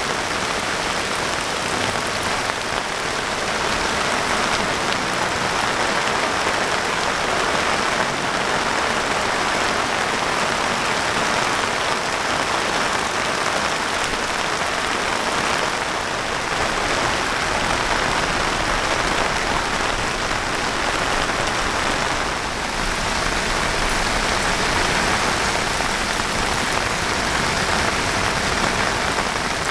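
Extremely heavy rain pouring down: a steady, dense hiss of downpour with no break.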